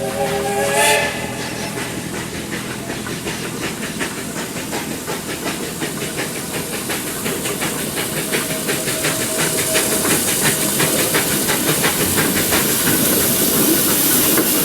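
Baldwin narrow-gauge steam locomotive: its whistle sounds a chord that ends about a second in. After that the engine works upgrade with a rapid, regular exhaust beat over steam hiss, getting louder as it comes closer.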